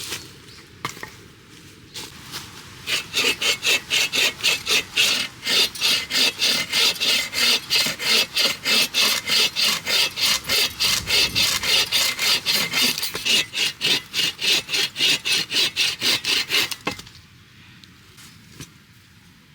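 Hand saw cutting through wood in quick, even rasping strokes, about three a second. It starts about three seconds in and stops a couple of seconds before the end.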